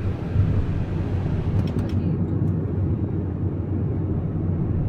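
Steady low rumble of a car's engine and tyres heard from inside the cabin while driving, with a few faint clicks about two seconds in.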